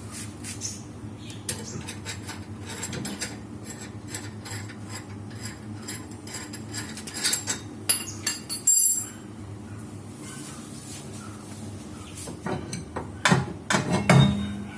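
Metal hand tools clinking and knocking against disc brake and handbrake parts, with scattered clicks and two loud clusters of strikes, about seven to nine seconds in and again near the end.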